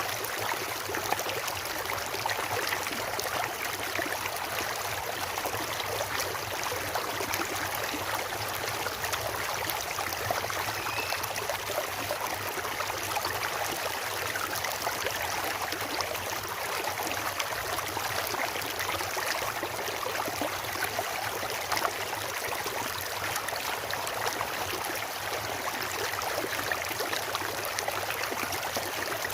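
Stream water flowing steadily, an even rushing sound without a break.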